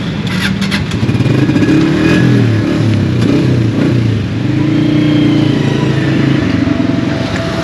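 Honda CG 125's single-cylinder four-stroke engine revving up and down several times as the motorcycle pulls away at low speed.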